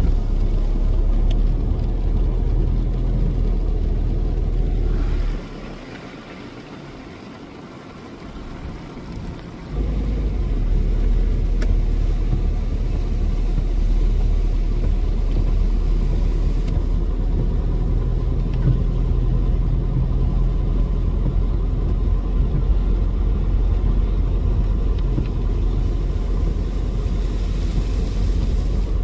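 Car on the move: a steady low rumble of engine and road noise. About five seconds in it drops away to a much quieter level for roughly four seconds, then comes back.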